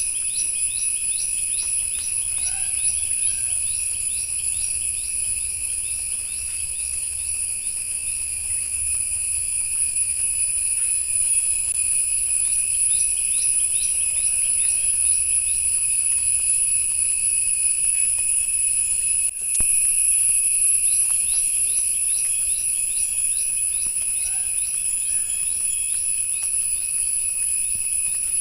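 Chorus of insects: a steady high-pitched shrill drone with a second insect chirping in a fast, even series over it. The sound drops out for an instant about two-thirds of the way through.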